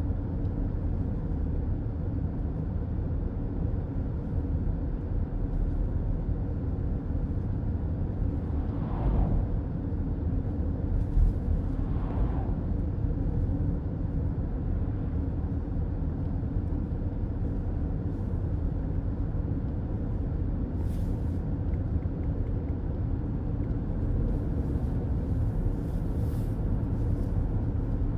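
Steady road and tyre noise of a car cruising on a highway, heard from inside the car, with two brief sounds falling in pitch about nine and twelve seconds in.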